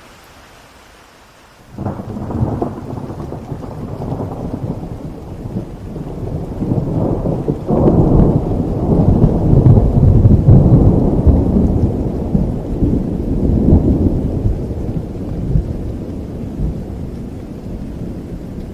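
Thunder over steady rain: a sudden crack about two seconds in opens a long, deep rolling rumble that swells again with a second crack around eight seconds, peaks, and slowly dies away under the rain.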